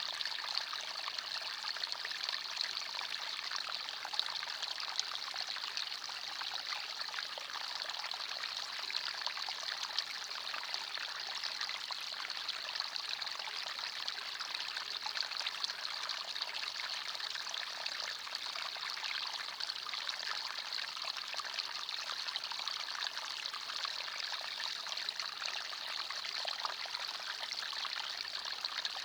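Shallow forest stream running and trickling over stones: a steady, even babble of water with fine splashy detail.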